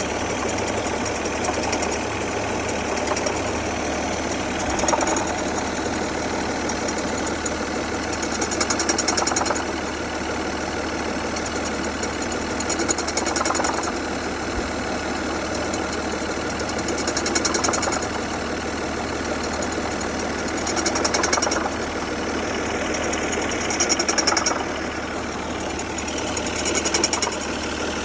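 2003 Saturn Vue engine idling, with a louder noise that swells and fades about every four seconds, which the owner believes is a failing AC compressor.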